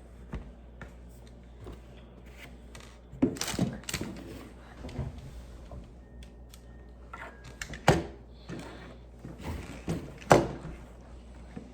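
Plastic Lego pieces being handled and pressed together: scattered clicks and short rattling clatters, the loudest a little after three seconds, near eight seconds and about ten seconds in.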